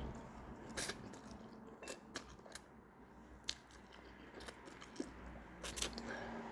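A person chewing a mouthful of food: irregular soft mouth clicks and smacks with quiet pauses between them.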